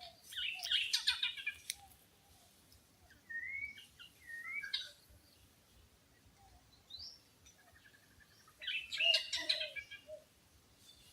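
Wild birds calling and chirping: two loud bursts of dense chattering calls, one at the start and one about nine seconds in, with short gliding whistles in between.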